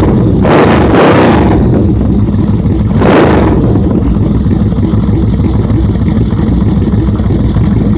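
A 1998 Yamaha V-Max's V4 engine running through a UFO Street Pro 4-2 exhaust fitted with Voodoo Speak Easy baffles and fiberglass packing: a steady, deep exhaust note that swells briefly twice in the first few seconds, then runs evenly.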